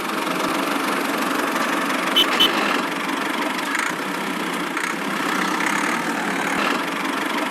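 Small engine of a miniature DIY tractor or bulldozer model running steadily, with two short high-pitched chirps a little over two seconds in.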